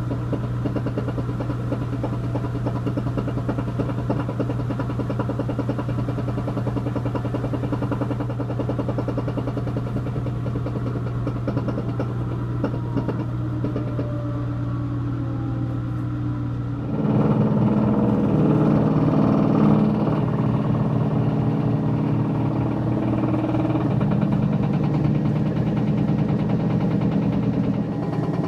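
Whirlpool Duet WFW95HEXW2 front-load washer on its spin cycle: a steady drone with a knocking, which the owner is pretty sure comes from worn rear bearings in the drum. About 17 seconds in it grows louder and its pitch shifts higher.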